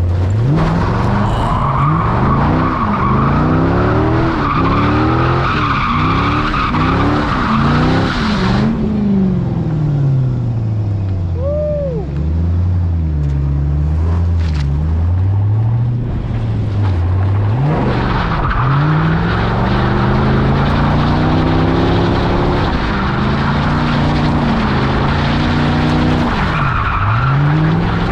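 C5 Corvette's LS1 V8 revving up and down hard while drifting, with tyre squeal over it. About nine seconds in the squeal stops and the engine eases off and runs lower for several seconds, then the revving and squealing start again.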